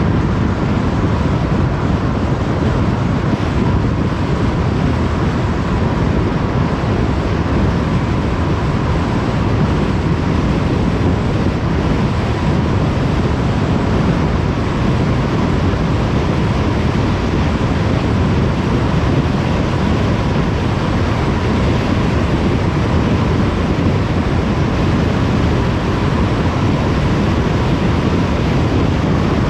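Steady road and wind noise of a car driving at speed on a motorway, an even rush with no change, with a faint steady tone above it.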